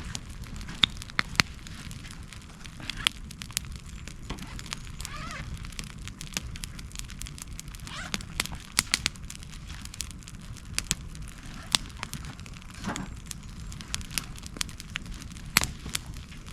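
Campfire of wood crackling, with irregular sharp pops and snaps.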